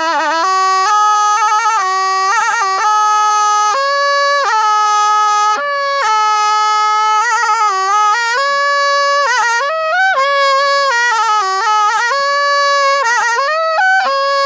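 Thai pi, a reed oboe, played solo: one unbroken melodic line with held notes, pitch slides and rapid wavering ornaments, bright and reedy.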